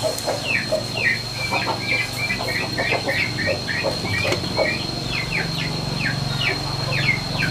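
Birds chirping: a quick run of short, falling chirps, several a second, over a steady high-pitched whine.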